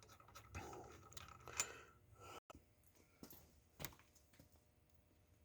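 Near silence, broken by a few faint short clicks in the first half and one more a little before the end.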